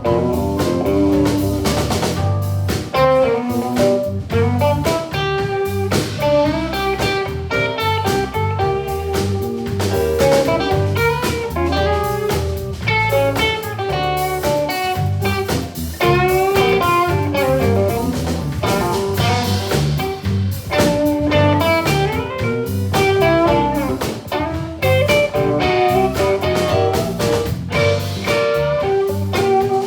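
Live blues band playing an instrumental passage: a plucked guitar picks quick runs of notes, some of them sliding in pitch, over a steady low bass line and drums.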